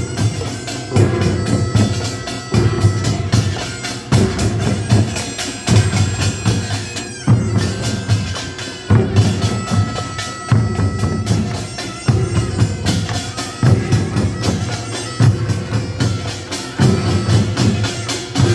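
Korean nongak farmers' band playing: small hand gongs (kkwaenggwari) struck in rapid clattering patterns over barrel drums and janggu, with a reed shawm (taepyeongso) sounding sustained notes above. Heavy drum strokes land roughly every second and a half.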